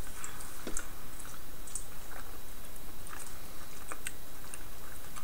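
A person chewing a soft, chewy sour fruit candy with the mouth closed: faint, scattered small wet clicks and smacks over a steady background hiss.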